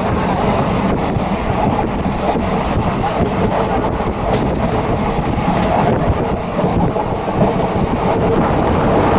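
Passenger train running, heard from on board the coach: a steady rumble of wheels on the rails with faint clicks over the rail joints.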